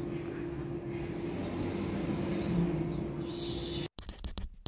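A steady hum with one constant tone over low background noise. It cuts off abruptly near the end and gives way to brief scratchy rustling and clicks.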